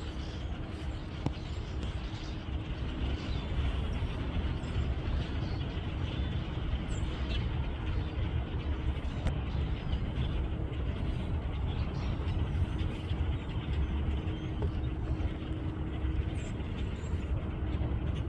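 Steady low rumble of vehicle or road noise, with a faint steady hum.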